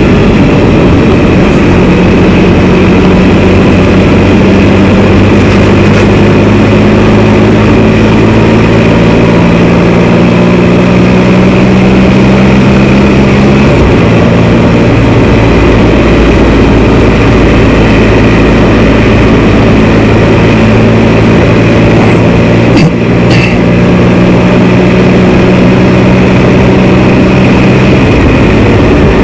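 Can-Am Spyder three-wheeled motorcycle's engine running while riding, under heavy wind rush. The engine note shifts about halfway through and drops away near the end.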